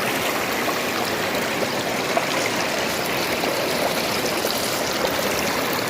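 Steady rush of fast-flowing river water running through a gold sluice box.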